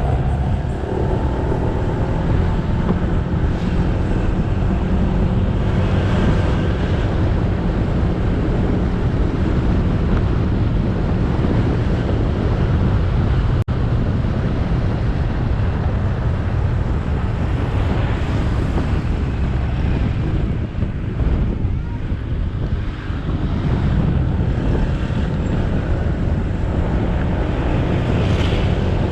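Motorcycle engine running steadily at riding speed, heard with wind buffeting the helmet-or-bike-mounted action camera's microphone and tyre and road noise. The sound cuts out for an instant about halfway through.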